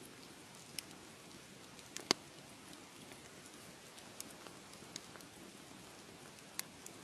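Wood fire crackling: irregular sharp pops and snaps over a soft steady hiss, with one louder pop about two seconds in.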